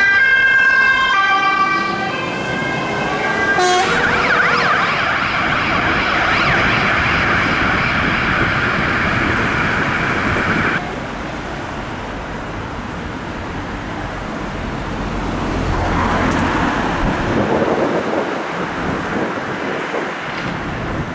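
Volvo FM fire engine siren sounding a two-tone alternating pattern, then switching to a rougher, faster sound about four seconds in. It cuts off suddenly about eleven seconds in, leaving the truck's engine and road noise, which swell again later.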